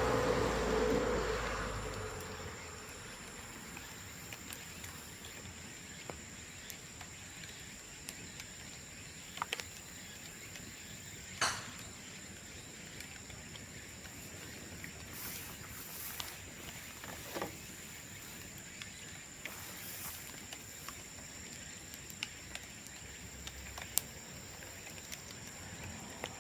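Bamboo bonfire crackling, with scattered sharp pops spread through, over a steady high insect drone. A buzzing insect passes close in the first couple of seconds.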